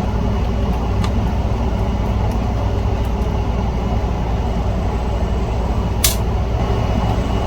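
Steady low rumble of background machinery, like an air conditioner or fan running. A few light clicks sit over it, with one sharp click about six seconds in.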